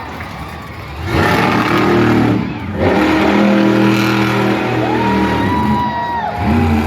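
Monster truck engine revving hard in bursts, over music from the arena sound system, with a long held horn-like tone about five seconds in.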